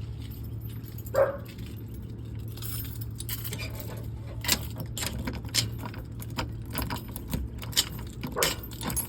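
A bunch of keys jangling, with a run of sharp clicks and rattles from about four and a half seconds in, over a steady low hum.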